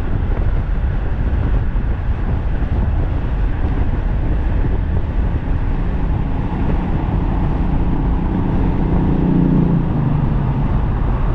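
Wind buffeting the microphone on an e-bike ridden at speed. A steady motor hum rises over it about six seconds in and fades near the ten-second mark.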